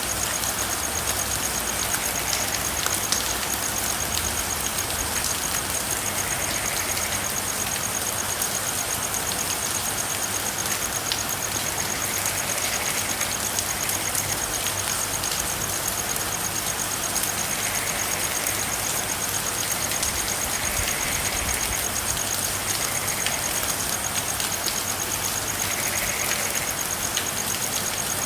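Steady rain falling, with short calls recurring every few seconds and a continuous high, rapidly pulsing trill above the rain.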